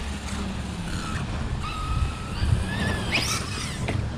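Electric RC truck motor whining, its pitch climbing about halfway through, with a short revving sweep near the end, over a low rumble of wind on the microphone.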